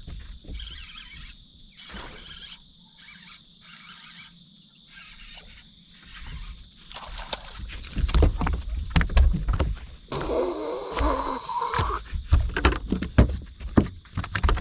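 Steady high insect buzz, then from about seven seconds in loud knocks, bumps and sloshing as a hooked bass is fought and brought in at the side of a boat, with a brief pitched wavering sound about ten seconds in.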